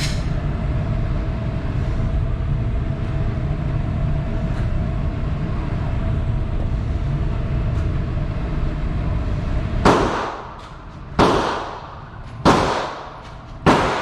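A steady low rumble, then four gunshots about a second and a quarter apart, starting about ten seconds in, each with a short echoing tail.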